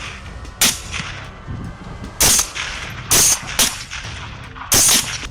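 Rifle shots fired at feral hogs: five separate shots at uneven intervals, each with a short echoing tail.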